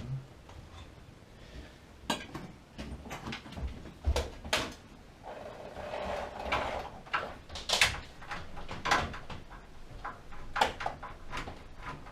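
Irregular clicks, knocks and scraping of hands working on parts during a gas water heater repair, with a longer scraping stretch about halfway through.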